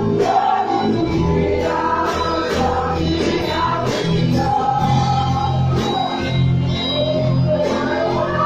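Gospel song: singing voices over a band with bass and a regular drum beat.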